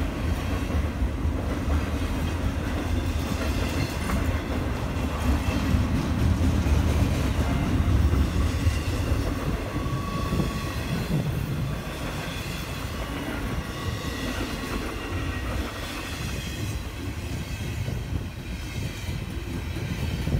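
Freight train rolling past: a steady rumble of railcar wheels on the rails, loudest midway and easing off a little in the second half.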